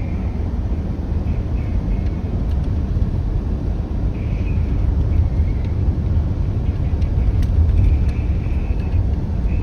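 Storm wind buffeting the microphone: a loud, steady low rumble with no break.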